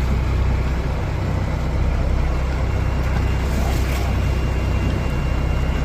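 Steady low engine drone, running evenly throughout.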